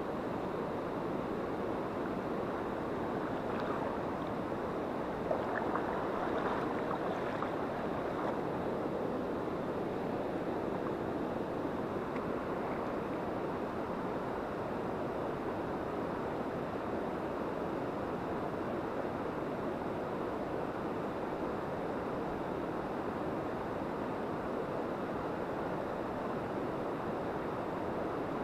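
Mountain river water rushing steadily over a shallow bed, a constant even noise.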